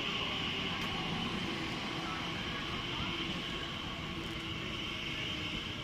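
Steady vehicle noise: an even hiss with a faint low hum.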